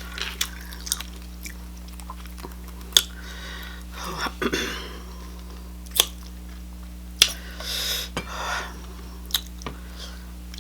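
Close-miked mukbang eating: chewing with sharp wet mouth clicks and smacks scattered through, and a few longer soft chewing stretches.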